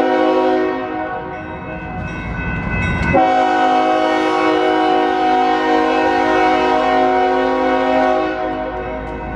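Union Pacific freight locomotive's multi-chime air horn sounding for a street grade crossing: one blast fades out about a second in, the train rumbles by, then a long blast starts abruptly about three seconds in and holds for about five seconds before fading.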